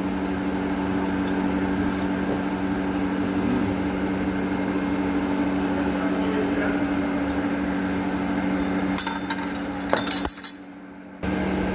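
Steady electric machine hum with a few light metallic clinks, during bronze build-up work on a damaged impeller; the hum drops out abruptly for about a second near the end.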